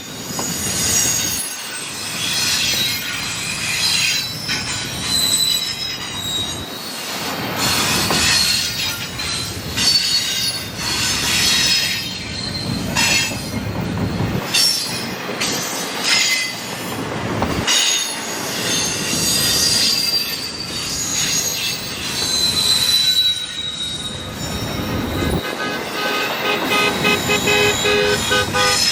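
A train rolling past with its steel wheels squealing and screeching against the rails, over a continuous rumble and scattered knocks. A steady chord-like tone joins near the end.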